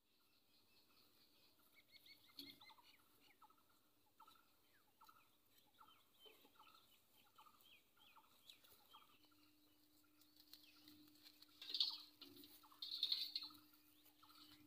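Faint outdoor birdsong: a long run of short, falling chirps, two or three a second, with two louder calls near the end.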